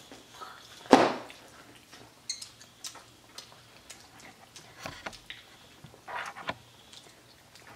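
Children chewing chicken nuggets: scattered soft, wet mouth clicks and smacks, with one loud thump about a second in.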